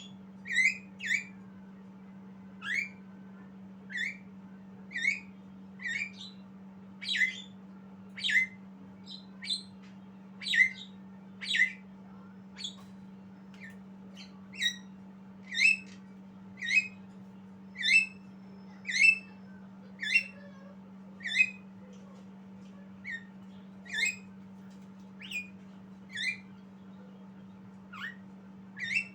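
Javan myna giving short, harsh squawking calls, roughly one a second and some doubled, over a steady low hum.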